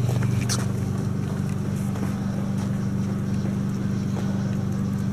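A train's engine or motors give a steady low drone, with a few faint clicks near the start.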